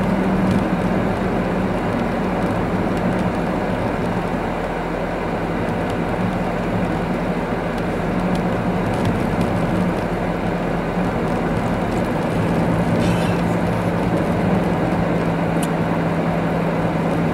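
Car interior while driving: the engine runs steadily under constant tyre and road noise, with the engine note dropping slightly in pitch about twelve seconds in.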